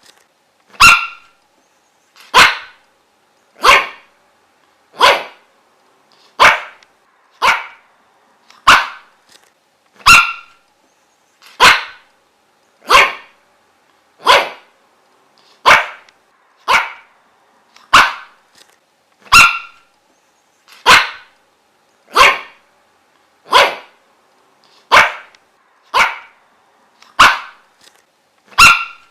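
A dog barking over and over, single sharp barks at an even pace of about one every 1.3 seconds.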